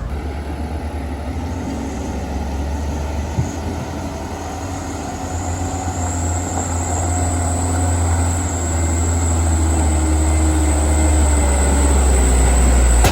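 Heavy truck's diesel engine running under load on a steep climb, a deep steady drone that grows louder, with a thin high whine over it from about a second and a half in. It cuts off suddenly at the end.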